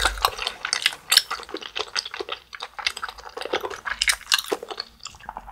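Close-miked chewing of rosé tteokbokki, chewy rice cakes in a creamy sauce, as a dense run of sticky, wet mouth clicks.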